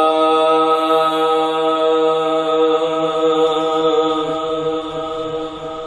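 A male naat reciter holding one long sung note, steady in pitch and fading near the end: the drawn-out opening phrase of an Urdu naat.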